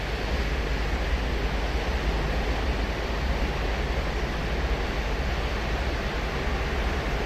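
Ocean surf breaking and washing on a sandy beach: a steady, unbroken wash of noise with a strong low rumble beneath it.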